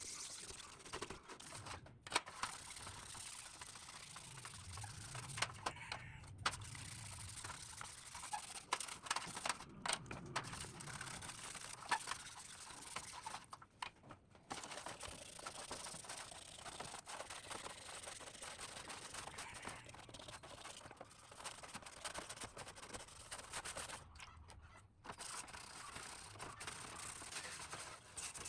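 Hand scraping and rubbing on old ceiling fan parts during restoration, an uneven scratchy noise with scattered clicks and taps and several brief pauses.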